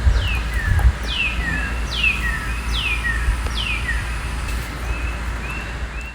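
Birds calling: a loud, high whistle that sweeps downward, repeated about once a second, five times, with fainter shorter chirps in between. Under it runs a steady low rumble of ambience that fades out near the end.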